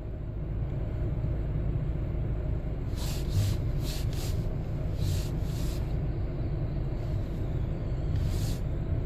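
Steady low rumble of a car idling, heard from inside the cabin, with several brief hissing bursts in the middle and one more near the end.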